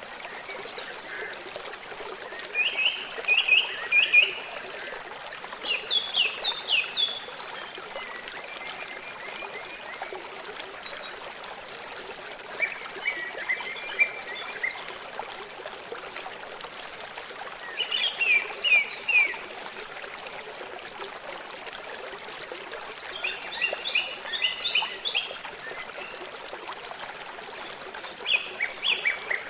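Steady trickle of a forest stream, with a songbird singing short phrases of quick repeated chirps every few seconds.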